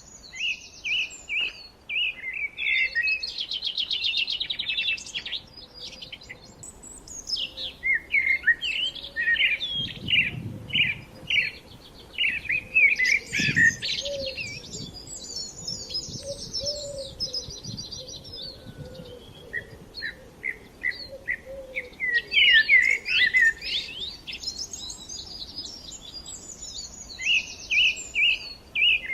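Several songbirds singing at once: rapid chirps and trills overlapping in bursts, with brief lulls between.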